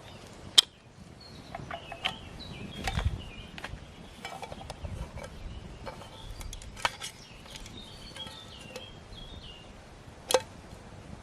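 Small birds chirping and singing in short, high notes, with a few sharp clicks or taps, the loudest about half a second in and one near the end.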